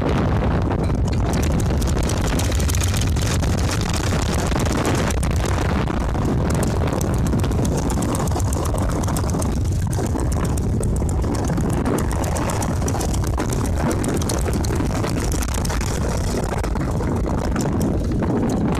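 Strong wind buffeting the microphone: a loud, steady, low rumbling rush of noise.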